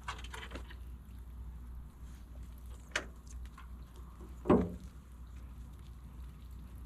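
Cargo trailer door being unlatched and opened: a sharp click about three seconds in, then a louder heavy thump about a second and a half later, over a steady low rumble.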